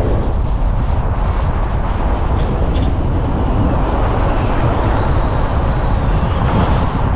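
Steady rumble and road noise of a vehicle on the move, with a few light clicks.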